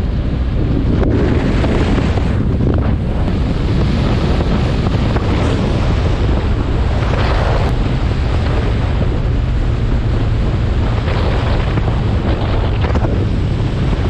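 Wind buffeting the microphone of a moving motorcycle, loud and steady, with the engine's low drone running beneath it.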